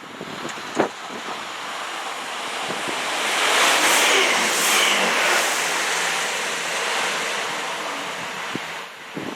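A train passing at speed: a rushing noise of wheels on rail and air that swells to its loudest about four seconds in and then slowly dies away.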